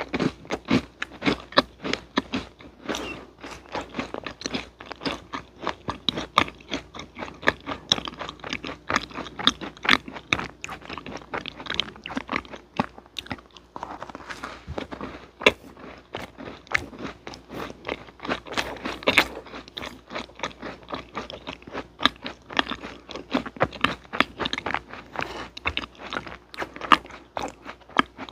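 A person chewing a macaron: the crisp meringue shell crunches in many rapid small crackles, with another bite about fourteen seconds in.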